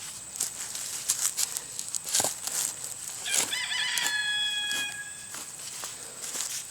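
A rooster crows once, starting about three seconds in and lasting about two seconds, wavering at first and then held. Short scrapes and rustles of digging in soil come and go around it.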